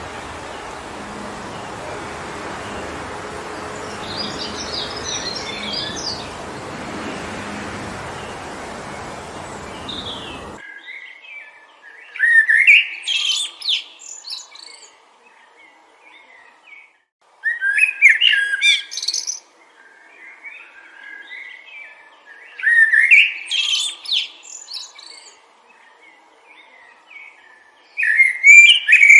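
Wind rushing through forest trees, with a few faint bird chirps, for about ten seconds, then cutting off suddenly. A songbird then sings short bursts of chirping song, four phrases about five seconds apart.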